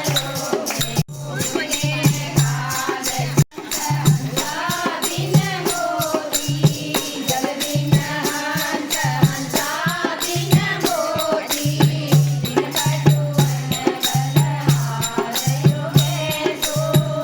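Hindu devotional bhajan sung as a group kirtan, with a fast, even rattle-like percussion beat and a repeating low beat under the singing. The sound cuts out briefly about a second in and again at three and a half seconds.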